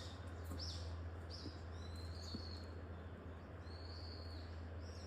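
Small birds calling: about five high, thin calls, some short and down-slurred, two drawn out for most of a second, over a low steady rumble.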